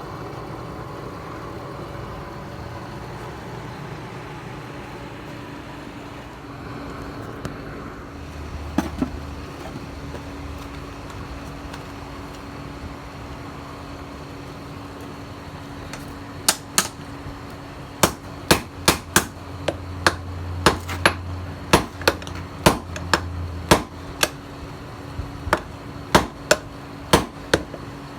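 Hammer blows on steel over a steady hum: a run of about twenty sharp, ringing strikes, one or two a second, starting about halfway through, typical of a hammer forging a tiller-blade steel blank on an anvil.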